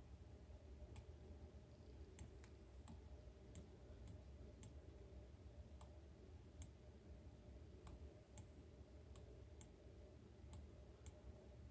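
Faint, irregular clicking of a computer mouse, roughly two clicks a second, over a low steady room hum.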